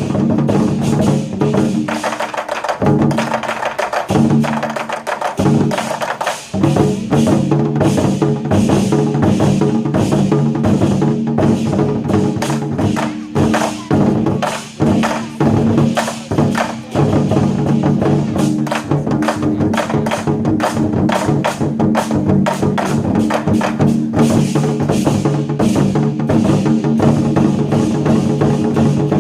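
Ensemble of Chinese war drums (zhangu) beaten with sticks in fast, dense rhythms over backing music with held chords, the drumming thinning to sparser strikes a couple of times.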